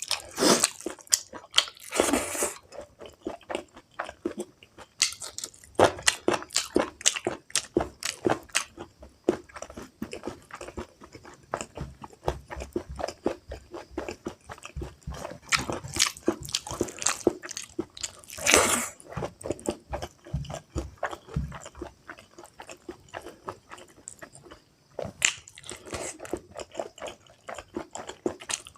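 Close-up chewing and biting of spicy pork curry with rice: an irregular run of wet mouth clicks and smacks, with a few longer, louder bursts.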